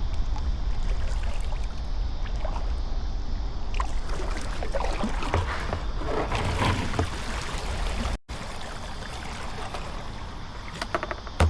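Kayak paddle strokes splashing and water trickling off the blades, loudest about halfway through, over a steady low rumble of wind on the microphone.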